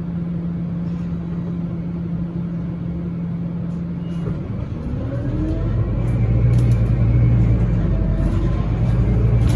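Scania Citywide LFA articulated bus running with a steady low engine note, then about four to five seconds in the engine note rises and grows louder as the bus accelerates.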